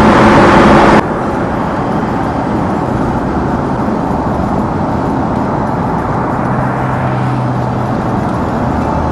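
Porsche Boxster 981's naturally aspirated flat-six through its stock exhaust, loud with its pitch falling for the first second. About a second in it drops abruptly to a quieter, steady rumble of engine and road noise while cruising, with a low engine drone coming up again near the end.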